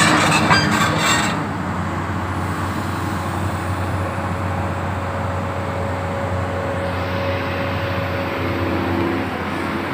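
Komatsu PC200-7 excavator's diesel engine running steadily, with a loud hiss over it that stops about a second in.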